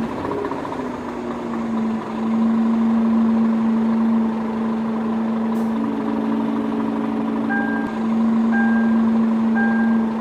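Small electric motor of a DIY miniature truck running with a steady whine, its pitch shifting slightly about two seconds in. From about seven and a half seconds a high beep repeats about once a second.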